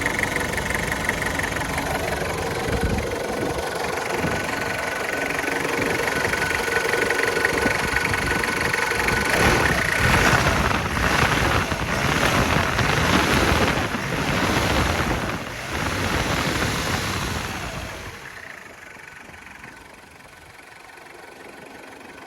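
1992 Toyota Hilux Surf's 2.4-litre turbo diesel engine idling with the hood open, a steady diesel clatter that runs louder and rougher through the middle, then drops to a much quieter level near the end.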